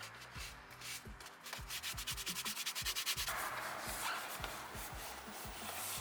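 Brush scrubbing a car's interior upholstery or carpet in quick, even strokes. About halfway through, a steady hiss joins in.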